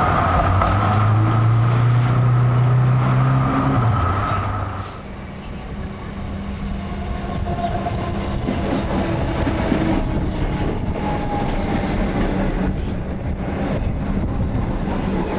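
Melbourne suburban electric train running: a steady electric hum that drops away about four and a half seconds in. It is followed by a lower, steady running sound with the rumble of wheels on rails and a few short clicks.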